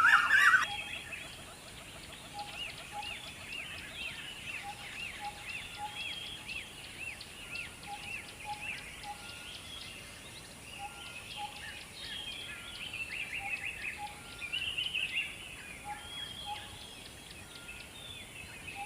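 Small birds chirping: a loud burst of calls at the very start, then a long run of quick, rising-and-falling high chirps repeated over and over, with soft paired lower notes between them.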